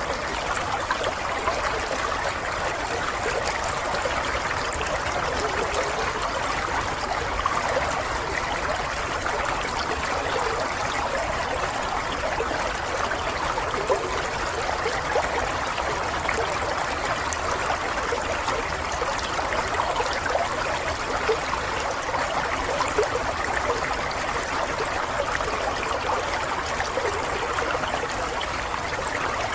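Running water: a steady babbling stream, trickling and splashing evenly without pause.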